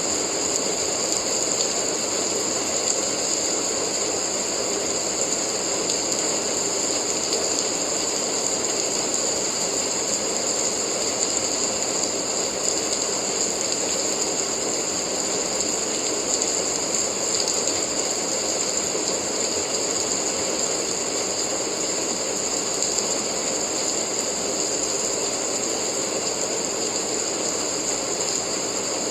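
Steady rain: an even, unbroken noise with a bright hiss that holds constant throughout.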